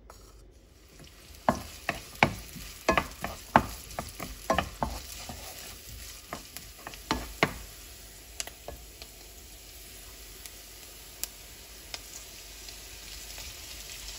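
Chopped onion sizzling in hot oil in a nonstick wok, with a run of sharp knocks and taps of a wooden spatula and bowl against the pan in the first half. The sizzle grows louder toward the end as ground pork goes into the pan.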